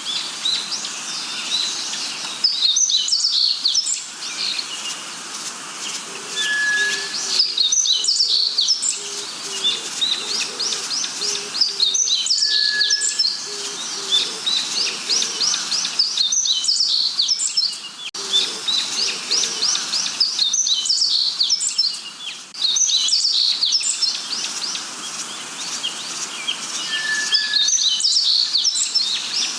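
A chorus of many forest birds chirping and trilling, with a short clear whistle that comes back several times and some low hooting calls. The sound changes abruptly every few seconds, as if pieced together from short stretches.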